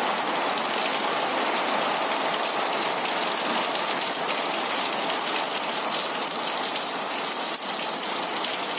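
Heavy rain pouring steadily, a dense even hiss of falling drops.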